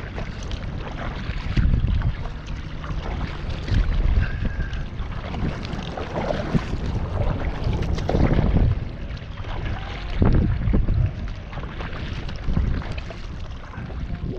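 Wind buffeting the microphone in gusts over water sloshing against a kayak.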